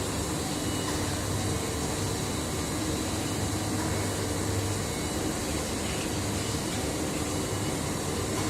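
Lead rotary furnace in operation with its oxy-gas burner firing: a steady, even noise with a low hum and faint steady tones above it.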